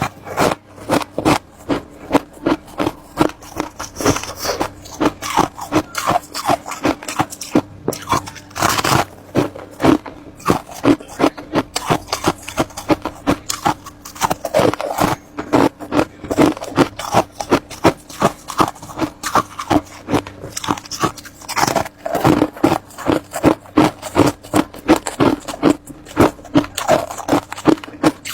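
Ice being bitten and chewed close to the microphone: a rapid, unbroken run of sharp crunches and scrapes, several a second.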